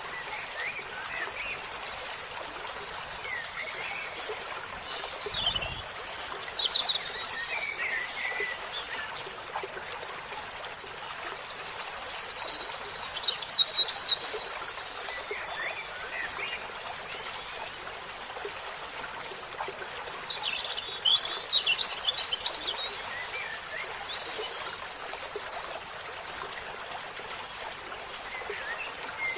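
Stream water running steadily, with songbirds chirping and trilling on and off over it; the loudest bursts of birdsong come in the middle and about two-thirds of the way in.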